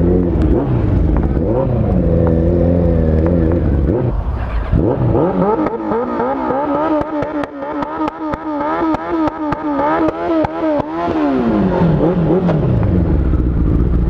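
A vehicle engine revving hard. Its pitch rises and falls a few times, then climbs sharply about five seconds in and holds at high revs, wavering quickly, for about six seconds before dropping back down near the end.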